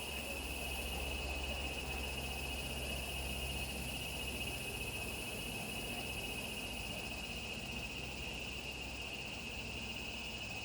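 Steady chorus of insects, a continuous high-pitched trill, with a fainter, higher hiss that fades out about seven seconds in, over a low rumble.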